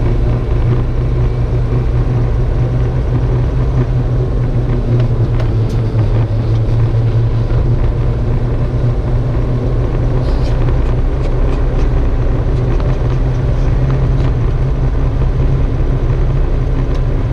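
Car driving at a steady pace: a constant low engine hum with road noise.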